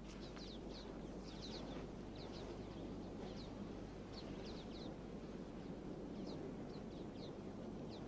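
Faint birds chirping, short high notes scattered irregularly a few times a second, over a steady low background hiss of outdoor ambience.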